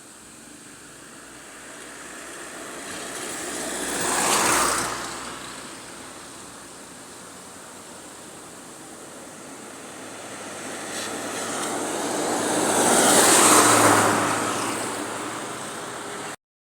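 Two vehicles driving past on the road, each building up and fading away: a shorter pass about four seconds in, then a louder, longer one near the end.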